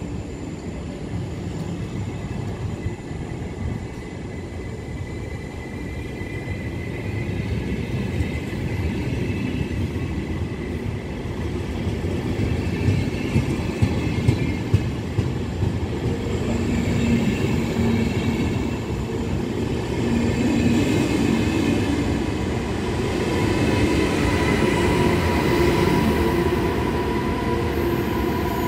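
VR InterCity double-deck passenger train rolling past close by: a steady rumble of wheels on rail with a few sharp clicks, slowly growing louder. It is loudest as the electric locomotive at the rear goes by near the end, when a few steady pitched tones come in.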